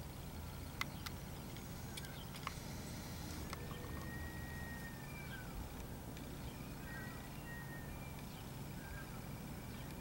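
Outdoor ambience with a steady low rumble and faint, high whistled calls of small birds: one long even note, then several short down-sliding chirps. A few sharp clicks come in the first few seconds.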